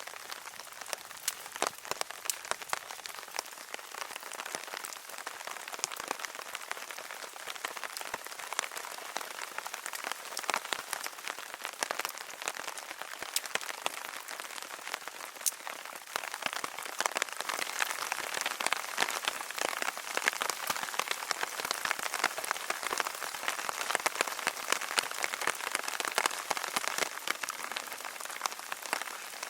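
Steady rain falling, with many individual drops striking close by as sharp ticks. The rain grows heavier a little past halfway through.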